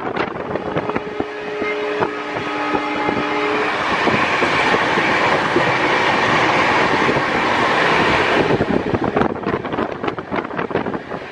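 Moving train heard from an open carriage window: wind rush and rattling wheels on the rails. A train horn sounds a steady chord from about a second in for roughly three seconds. The rushing grows louder in the middle and then gives way to the rattle again near the end.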